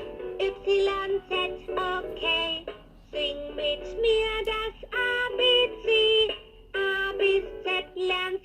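Electronic children's toy playing a song with a synthesized singing voice, in short phrases of held notes with brief pauses between them.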